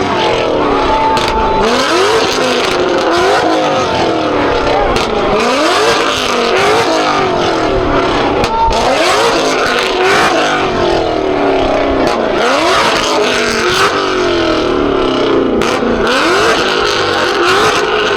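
Car engines revving hard again and again, each rev a quick rising sweep in pitch, one every second or two, over a dense, unbroken din.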